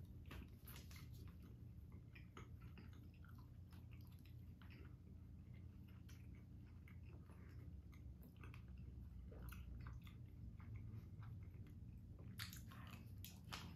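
Faint chewing and biting as two people eat squares of jam-filled dark chocolate, heard as scattered small mouth clicks over a low steady room hum, with a brief louder cluster of clicks near the end.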